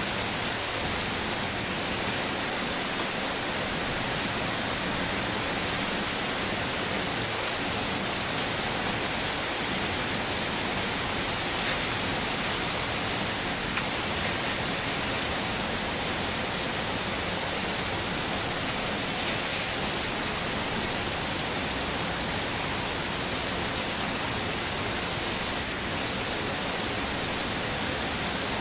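Heavy rain falling as a steady, even hiss, briefly dipping three times about twelve seconds apart.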